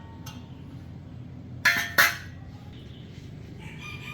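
Two sharp metallic clinks about a third of a second apart, halfway through, each with a brief ring, like metal parts knocked together, over a low steady hum.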